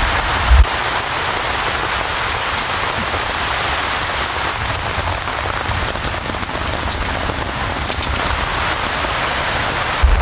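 Steady rain falling, an even unbroken hiss of drops, with one short low thump about half a second in.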